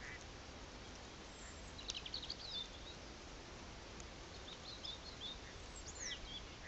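Wild birds chirping and whistling in short bursts, about two seconds in, around five seconds in, and again near the end, over a steady outdoor hiss.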